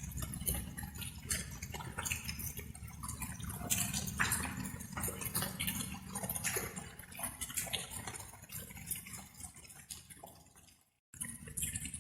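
Water dripping in quick, irregular drops over a low steady rumble. Near the end it fades out to a moment of total silence, then starts again abruptly.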